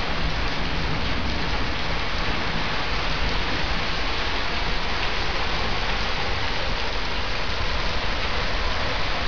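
Heavy rain pouring down steadily on roofs, fences and garden in a downpour: a dense, even hiss with a low rumble underneath.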